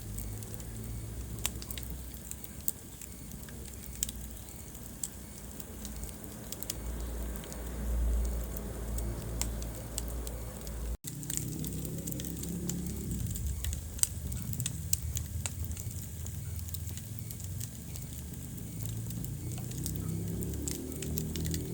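Wood fire burning in a fireplace: scattered sharp crackles and pops over a low rumble of flames. The sound cuts out for an instant about halfway through.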